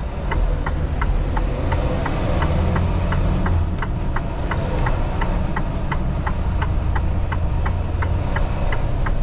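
Diesel engine of a Freightliner semi-truck idling, heard from inside the cab, with a steady ticking of about three clicks a second.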